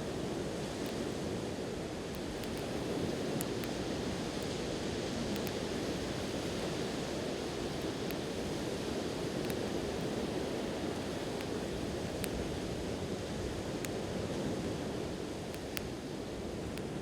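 Steady wash of sea surf, with a wood campfire giving sparse, faint crackles now and then.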